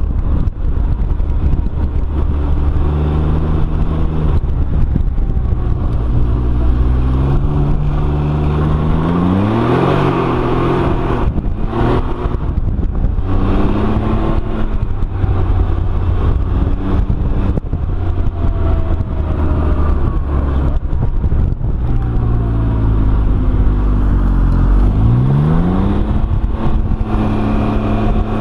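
Can-Am Ryker's engine running under way with a steady low rumble; its pitch climbs twice, about ten seconds in and again near the end, as it accelerates.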